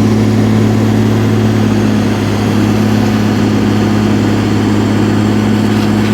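Concrete pump's engine running at a steady speed, a constant low hum with a strong even tone.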